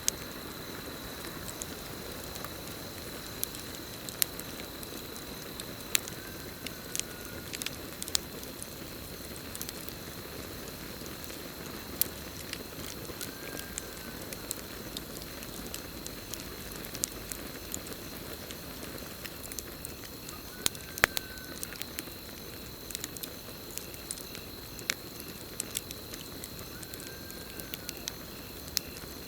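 Campfire crackling, with irregular sharp pops, some much louder than others, over the low hiss of the burning wood. A steady high cricket trill runs underneath, and a brief call sounds about every seven seconds.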